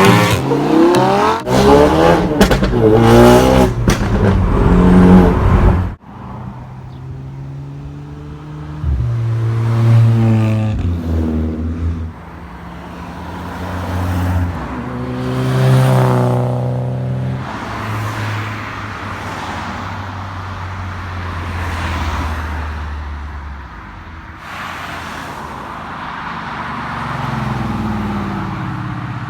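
Cars pulling away one after another, engines revving and rising in pitch as each accelerates past. There is a sudden cut about six seconds in.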